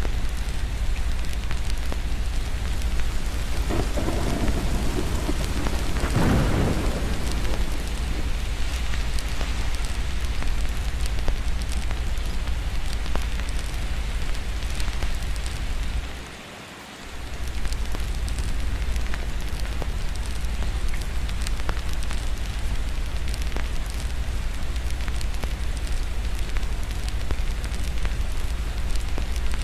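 Steady rain with a deep low rumble underneath, and a roll of thunder swelling about four seconds in and fading by seven. The whole sound briefly drops away about sixteen seconds in, then returns.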